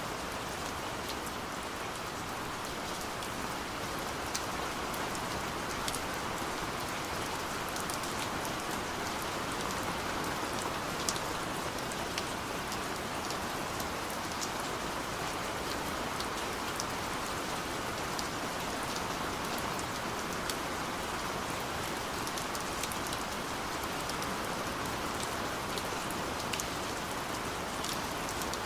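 Steady rain falling, an even hiss with scattered sharp drops ticking on a surface throughout.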